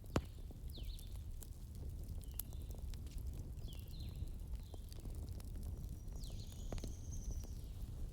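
Wood fire crackling, with sharp pops and snaps (one loud pop right at the start) over a low steady rumble. Short high chirps recur about once a second.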